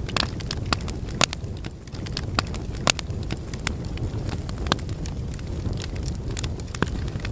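Wood fire burning in a fireplace: a steady low rumble of flames with frequent sharp crackles and pops from the logs, two louder snaps at about one and three seconds in.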